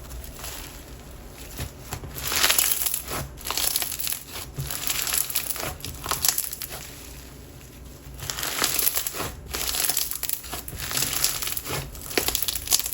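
Textured slime being stretched, squeezed and pressed by hand, giving crinkly, crackling sounds that come in several bouts with quieter pauses between.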